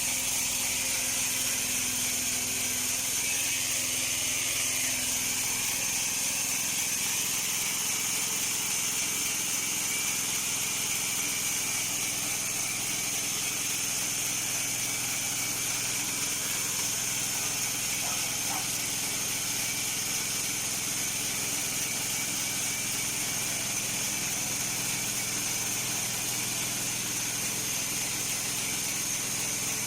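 Portable bandsaw mill running steadily, its engine going under load as the blade saws through a log, with a constant high hiss.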